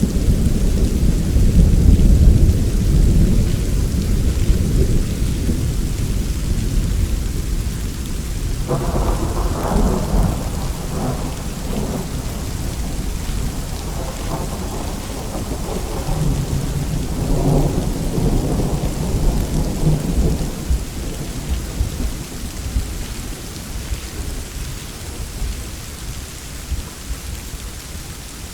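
Steady rain with rolling thunder: a deep rumble at the start that fades, then more rumbling peals about nine seconds in and again around the middle, dying away near the end.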